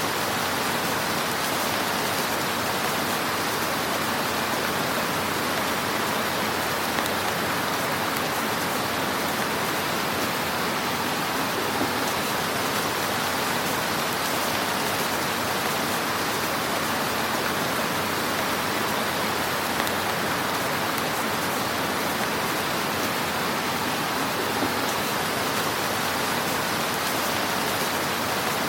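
Wood fire crackling in a fireplace: a steady, dense crackle and hiss, with a few slightly louder pops.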